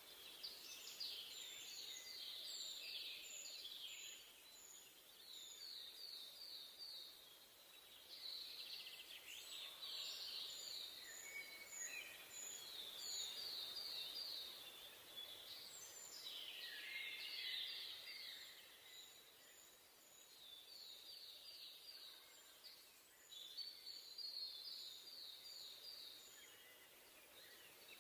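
Songbirds singing in a forest, faint: phrases of quick repeated notes recur every few seconds, with a second bird giving series of short, very high notes, over a soft steady hiss.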